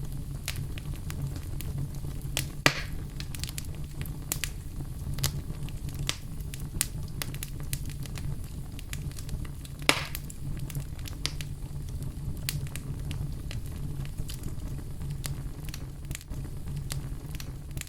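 Wood fire burning in a fireplace: a steady low rumble of flames with constant sharp crackles, and two louder pops, one a few seconds in and one about halfway through.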